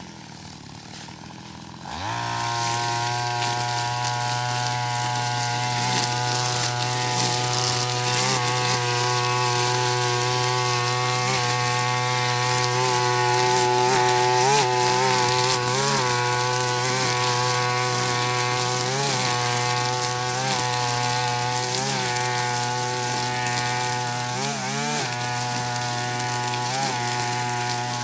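Backpack brush cutter's small two-stroke engine running low, then revving up sharply about two seconds in and holding at high speed. Its pitch sags briefly every second or two, as under load when the nylon line bites into grass.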